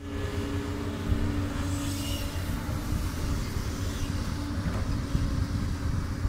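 Doosan DX200 excavator's diesel engine running steadily with a low, even drone.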